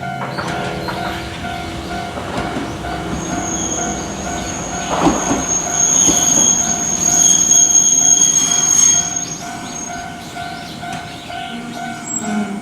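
Hankai Tramway Mo 501-type tram, built in 1957, on the move: a high steel wheel squeal from about three seconds in until about ten seconds, with a clatter of wheels over the rail joints around five seconds in.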